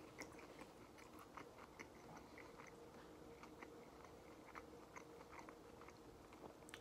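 Faint chewing of a breaded chicken nugget: soft, irregular little crunches and mouth clicks.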